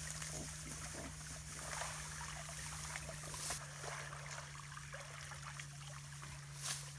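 Water trickling and splashing in a flooded rice-field drain box, with scattered small splashes as weeds and rice plants are pulled out by hand. A low steady hum runs under it.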